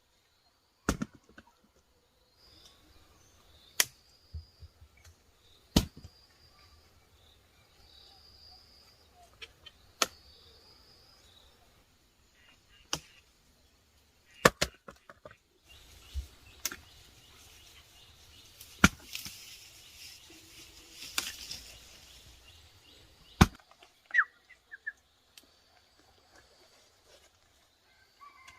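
A series of sharp knocks or strikes a few seconds apart, with a stretch of rustling hiss past the middle and faint bird calls in between.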